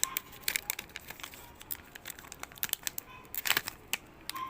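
Trading-card pack wrapper crinkling and tearing as it is opened: an irregular run of sharp crackles, loudest about three and a half seconds in.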